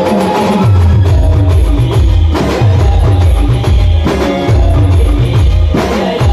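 Loud band music: a driving drum beat over deep bass notes that slide downward, with a melody line above.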